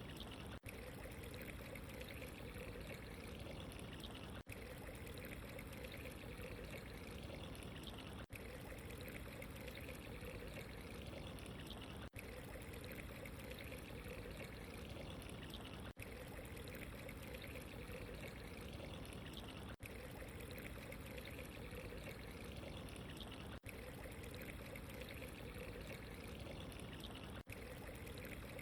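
Steady trickling, flowing water, faint and even, with a very brief dropout about every four seconds.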